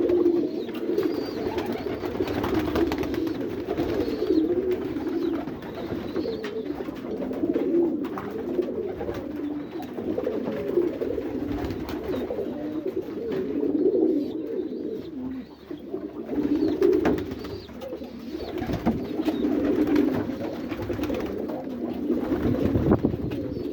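Domestic pigeons in a loft cooing, several low, overlapping calls that swell and fade without a break.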